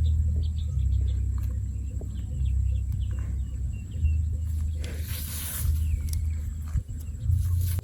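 Outdoor field ambience: a low rumble that swells and fades, with short high bird chirps in the first few seconds and a brief rustling hiss about five seconds in.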